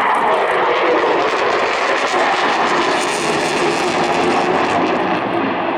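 Eurofighter Typhoon FGR4's twin EJ200 jet engines roaring past in a high-speed, low-level pass at close to 500 mph, loud throughout, sharpest about three seconds in and easing off toward the end.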